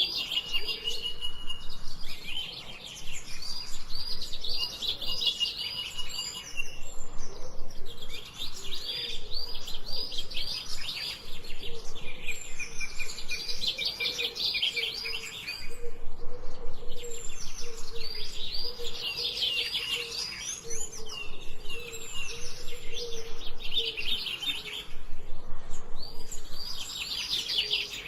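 Forest birds singing: bursts of rapid trills made of quick falling chirps, one after another every few seconds.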